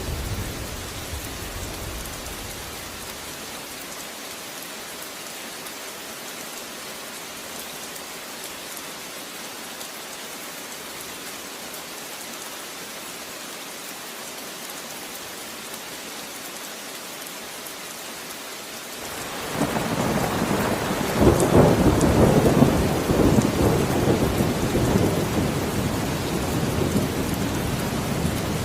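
Steady rain falling, with a low rumble of thunder dying away in the first few seconds. About two-thirds of the way through a louder roll of thunder comes in, peaks a few seconds later and keeps rumbling under the rain.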